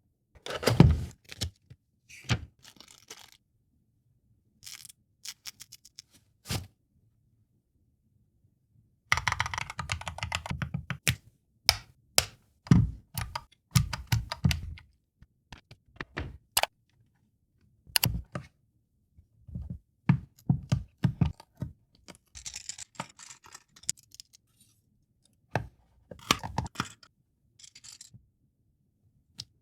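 Unboxing and handling of an MKESPN K808 mechanical macropad: scattered knocks and thunks as the box and pad are handled, a run of rapid clicking, and a short stretch of packaging rustle near the end.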